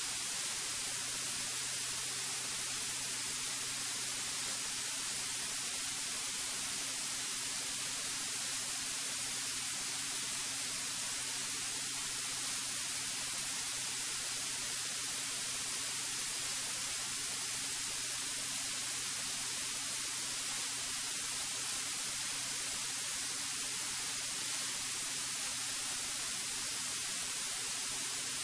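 Steady hiss of the cockpit audio feed in a Cirrus light aircraft, with a faint steady low hum beneath it from the engine and propeller in cruise power.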